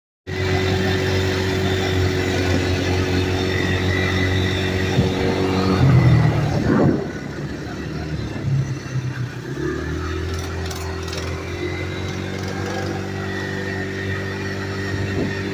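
A small off-road vehicle engine idling steadily, briefly getting louder and uneven about six to seven seconds in, then dropping and settling back into a steady idle about ten seconds in.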